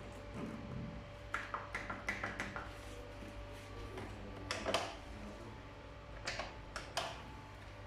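Arielli AWM-7128N washing machine running with a steady low hum, with groups of sharp clicks and knocks about a second in, midway and near the end.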